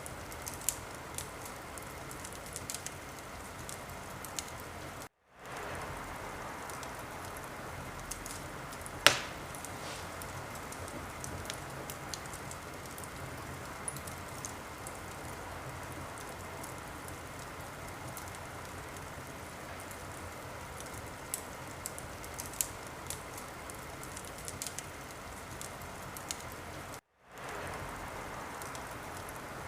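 Wood fire in a fireplace burning with a steady hiss and frequent small crackles, with one loud pop about nine seconds in. The sound cuts out completely for a moment twice, at loop joins in the recording.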